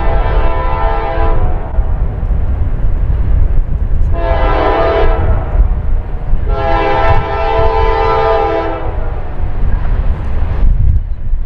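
Locomotive air horn sounding several notes at once as a chord: a long blast ends just after the start, a short blast comes about four seconds in, and a longer blast of about two seconds follows. This fits the long-long-short-long grade-crossing signal. A steady low rumble runs underneath.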